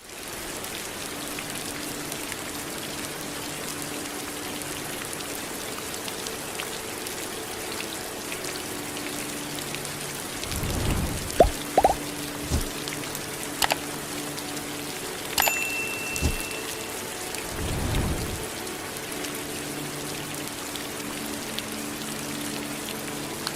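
Steady rain falling. In the middle come a few short low rumbles and some sharp clicks.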